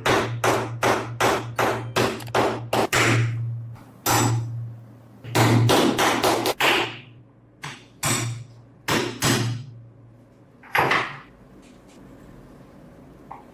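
A hammer striking metal in quick, even blows, about three a second, then in shorter runs with pauses between them; the last blow falls a little after the middle.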